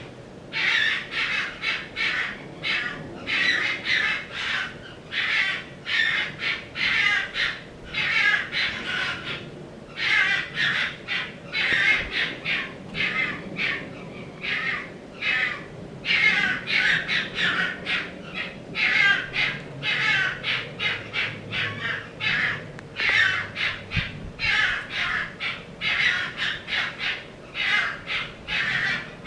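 Harsh squawking calls, several a second in repeated runs with short breaks between them.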